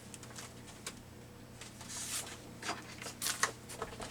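Paper being handled: rustling and a few small taps as sheets and cut-outs are moved about, with a louder rustle about two seconds in and a sharp tap a little after three seconds.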